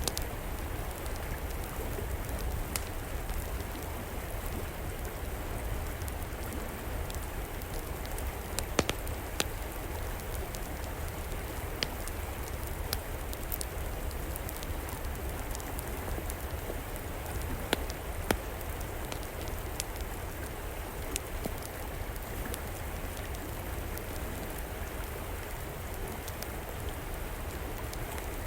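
Steady rushing of a flowing river, with the irregular sharp pops and crackles of a wood fire scattered through it; a few louder pops stand out.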